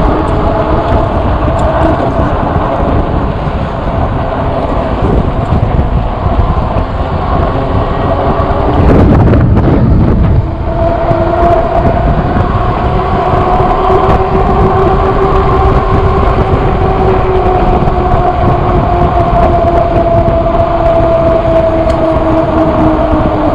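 Wind buffeting the microphone on a moving e-bike, with a steady droning whine that drifts slowly in pitch. A stronger gust of wind noise comes about nine seconds in.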